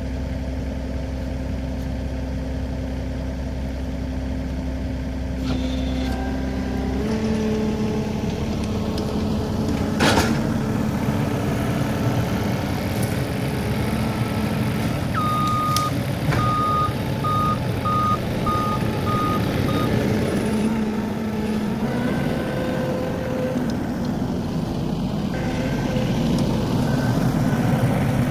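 Skid steer engine idling, then revved up to work about seven seconds in, with a sharp knock about ten seconds in. Its reversing alarm sounds one long beep followed by a run of about six short beeps around the middle, and beeps again near the end.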